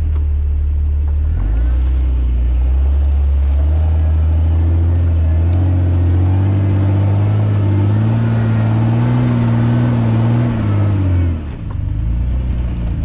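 Off-road 4x4's engine revving: the revs climb about halfway through, hold high for a few seconds, then drop off sharply near the end.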